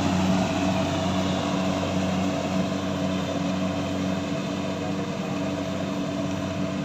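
Engine of a harvesting machine running steadily at a constant speed, with no change in pitch.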